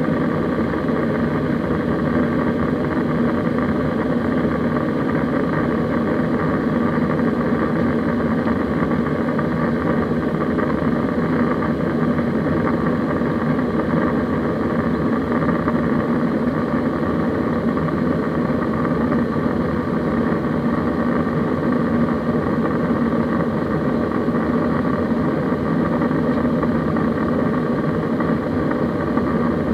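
Steady cabin noise inside an Airbus A320 with its engines running: an even drone with a low hum and a few steady higher tones, unchanging throughout.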